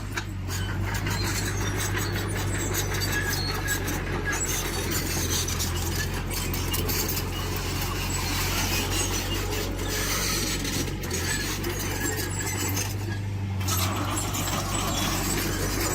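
Diesel engine of heavy earthmoving machinery running steadily, with frequent clicks and knocks over it.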